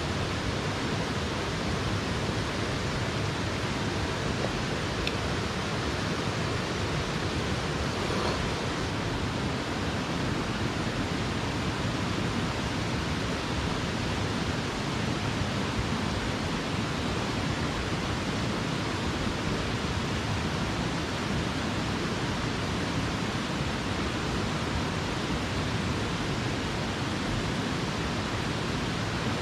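Steady rush of a mountain headwater stream's flowing water.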